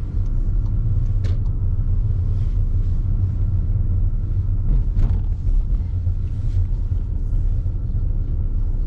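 Steady low rumble of engine and tyres heard inside the cabin of a 2016 Skoda Superb Mk3, moving slowly while looking for a parking space.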